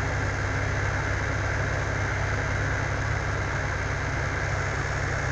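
1985 Dodge Aries running down the road, heard inside the cabin: a steady low drone of engine and road noise.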